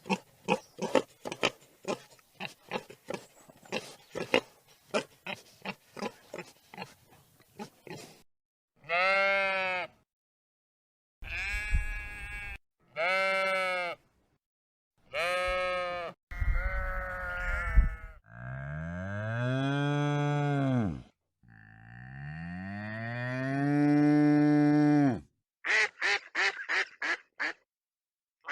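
Farm animal calls edited one after another. First comes a rapid run of short pulses, then several short arching calls. These are followed by two long, low calls that rise and fall in pitch, and a quick run of short calls near the end.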